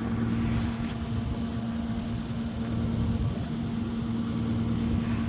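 A vehicle engine idling steadily: a low rumble under a constant hum.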